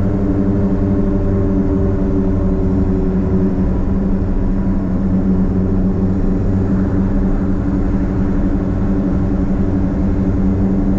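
Straight-piped exhaust of a Nissan Platina's four-cylinder engine, running at a steady, even drone while driving, with little change in pitch.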